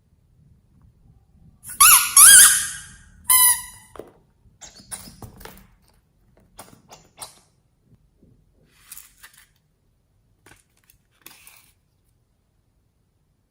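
Loud, sharp squeaks from slime being handled, with a cluster about two seconds in and another shortly after. These are followed by a run of softer clicks and sticky crackles.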